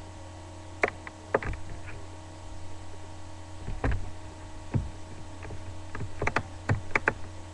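Scattered short clicks and knocks, some in quick pairs, over a steady low electrical hum: handling noise from someone touching or adjusting the playback or recording device.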